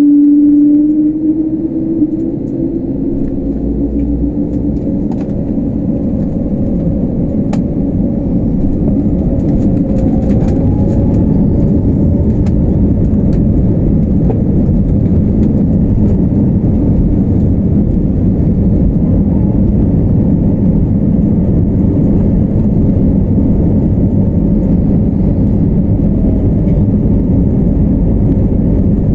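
Jet airliner engines at high power with the steady rumble of the takeoff heard inside the passenger cabin; a faint tone shifts in pitch in the first seconds and the noise grows a little louder about ten seconds in, then holds steady.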